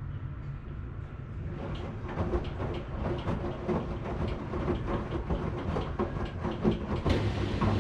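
Washing machine running. A low rumble turns, about a second and a half in, into a fast, irregular clatter of knocks. Near the end a steady low hum starts up.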